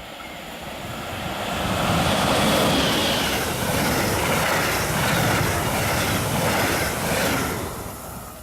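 A train passing by on the line, its wheel and rail noise building over the first two seconds, staying loud for about five seconds, then falling away sharply near the end.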